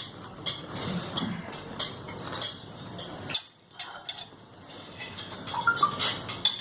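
Cutlery and dishes clinking at a dinner table: a scatter of light clicks and taps, broken by a short lull about halfway through.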